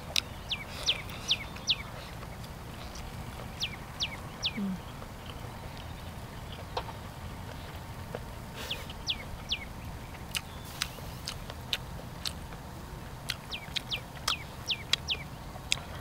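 Small birds chirping: short, high chirps that drop quickly in pitch, coming in runs of two to four, with scattered sharp clicks in between.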